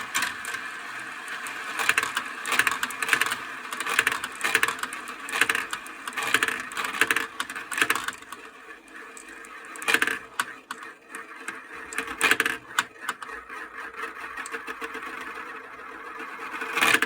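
Marbles rolling down plastic marble-run slopes, a continuous rattling roll dotted with clicks as they hit the track pieces and each other. The rolling thins out after about 8 seconds, leaving scattered clicks.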